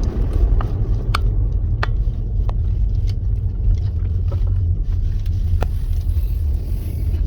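Car road noise from inside the cabin: a steady low rumble of tyres on a rough road, with a few sharp clicks and rattles.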